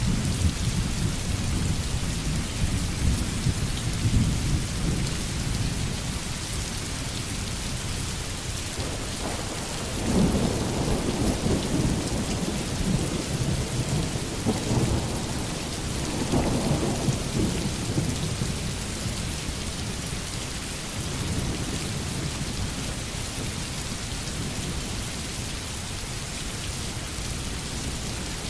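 Steady heavy rain hissing in a forest thunderstorm, with thunder rumbling low underneath, swelling about ten seconds in and again a few seconds later.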